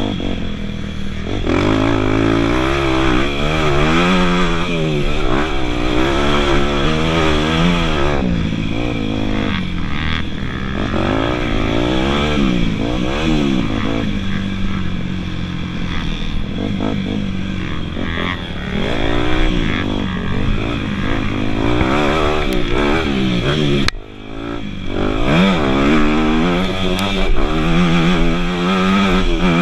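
Dirt bike engines revving up and down over and over, the pitch rising and falling as the bikes accelerate and back off around the track. The sound cuts out briefly and sharply about four-fifths of the way through.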